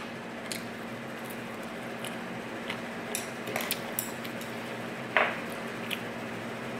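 Scattered light clinks of a fork on a plate and eating noises as spaghetti is eaten, with a louder single sound about five seconds in, over a steady low hum.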